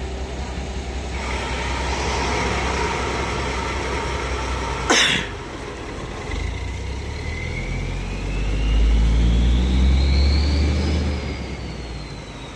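Heavy truck engine rumbling and building up, with a whine that climbs in pitch for several seconds and then drops away near the end. A single sharp, short burst of noise comes about five seconds in.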